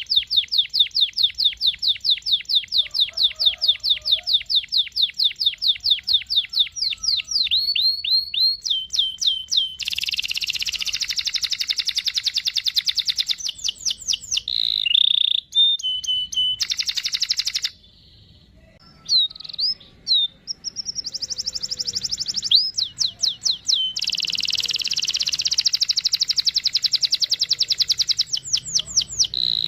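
Domestic canary singing: long, fast rolling trills of repeated high chirps, broken by shorter varied phrases and a brief pause a little past halfway.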